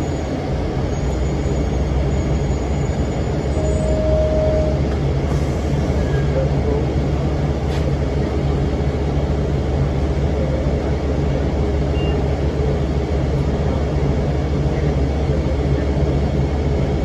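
Cummins ISM diesel engine of a 2006 NABI 40-foot low-floor transit bus running with its engine cooling fan on, a steady low drone.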